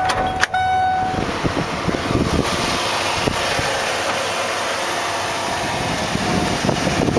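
Ford Bronco's 5.0-litre fuel-injected V8 idling steadily, with a continuous rush of noise. A steady electronic warning tone sounds at the start and stops about a second in.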